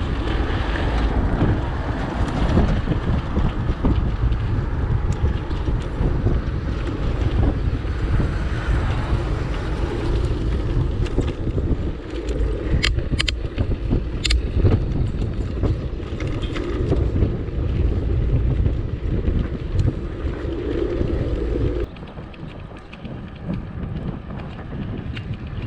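Wind buffeting the microphone: a heavy, gusty rumble, with a few sharp clicks past the middle. It drops suddenly to a quieter level about 22 seconds in.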